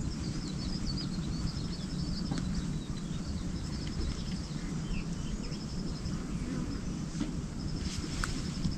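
Rural outdoor ambience: short bouts of a rapid, high-pitched pulsing trill from a small animal repeat about every two seconds over a low steady rumble.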